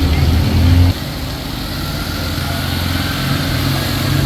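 A motor vehicle's engine running, under a steady hiss. A loud low rumble drops off suddenly about a second in, and a quieter steady engine hum carries on.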